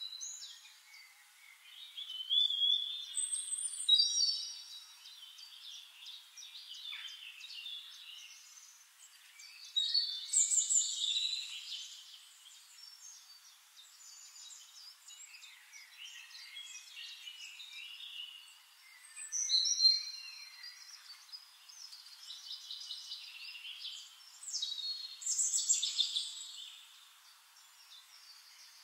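Birds chirping and singing: clusters of high chirps and short whistled phrases every few seconds over a faint steady hiss.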